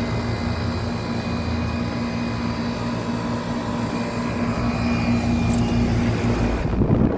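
1995 Tempstar central air conditioner's outdoor unit running, its Copeland reciprocating compressor humming steadily under the rush of the condenser fan, roaring along. A brief low rumble near the end.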